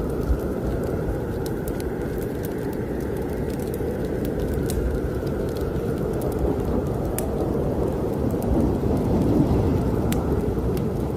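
Snowstorm wind blowing in a steady low rush that swells a little near the end, with the sharp pops and crackles of a wood fire in a fireplace scattered over it.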